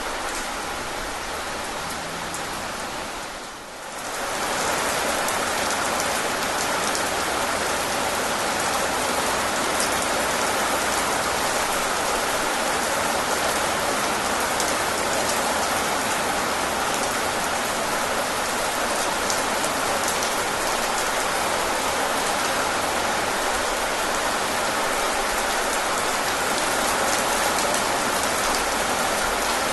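Steady rain falling, with the small ticks of single drops heard through it. About three and a half seconds in it dips briefly, then returns a little louder and stays steady.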